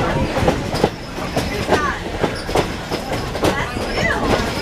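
Railroad passenger coach riding along the track: a steady low rumble with frequent, irregular clicks and knocks of the wheels and car, under faint passengers' voices.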